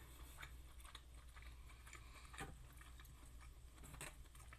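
Near silence with faint mouth sounds of someone chewing food and a few soft clicks, the clearest about two and a half seconds in and near the end.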